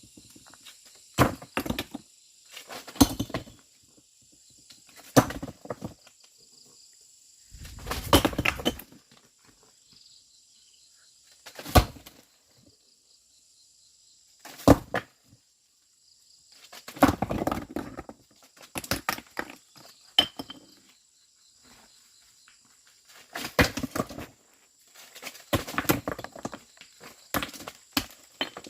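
A series of irregular knocks and scrapes, a second or two apart, from hand work with hard objects, over a steady high insect drone.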